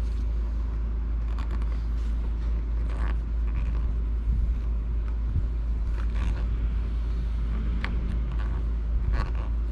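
Small tri-wing screwdriver working the screws of a Nintendo Switch's back shell: scattered light clicks and scrapes of metal tool on screw and plastic, over a steady low hum.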